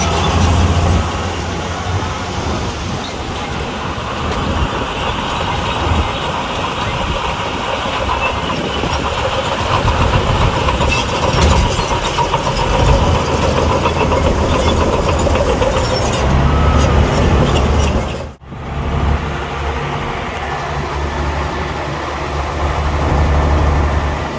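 Diesel engine of heavy earthmoving machinery running steadily with a deep rumble. The sound cuts out for a split second about three-quarters of the way through.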